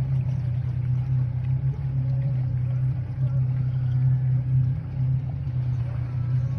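Boat motor running steadily at cruising speed, a constant low drone with a haze of water and wind noise over it.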